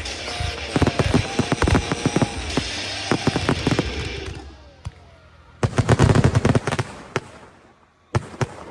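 Fireworks going off in rapid strings of bangs and crackling, dying down about four seconds in. A second short volley of rapid bangs follows around six seconds, then a single bang near the end.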